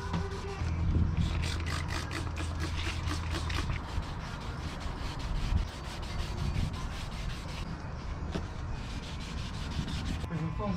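Sanding by hand: quick repeated rubbing strokes of abrasive against a surface, over a steady low hum.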